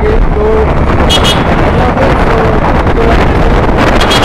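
Wind buffeting the microphone on a moving motorcycle, over steady road noise.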